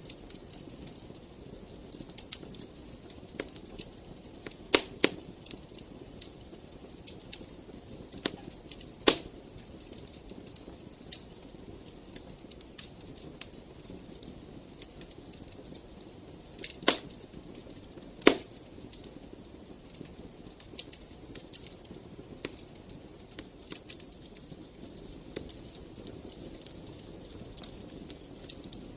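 Wood fire crackling in a fireplace: a steady low hiss of burning under frequent small sharp crackles, with a few much louder pops now and then.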